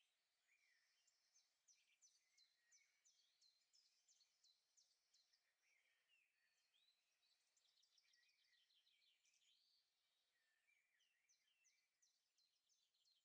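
Very faint outdoor birdsong: several birds chirping and trilling with short rising and falling notes, over a quiet background.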